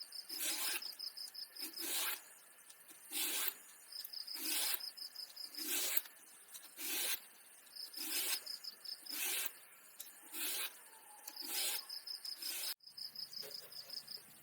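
About ten regular scraping or rubbing strokes, roughly one a second, over an insect's pulsed high chirping. It all cuts off suddenly near the end.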